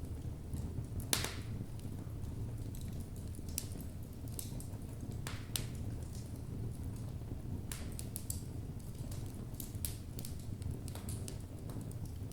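Logs burning in a fireplace: irregular sharp crackles and pops over a steady low rush of the flames, the loudest pop about a second in.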